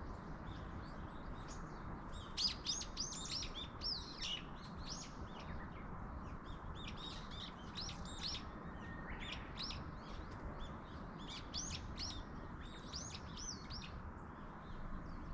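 Small songbirds singing in quick runs of high chirps, three or four bursts a few seconds apart, over a steady background hiss.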